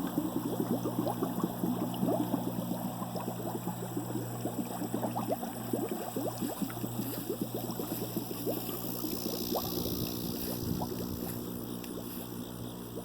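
Water trickling and gurgling, with many small irregular splashes and crackles over a steady low hum.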